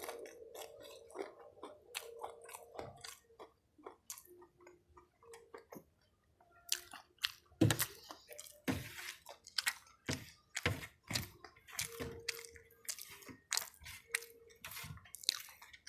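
A person chewing a mouthful of rice and fried chicken, with wet smacking clicks of the mouth. It goes quiet for a few seconds in the middle, then picks up again with louder, quicker smacks.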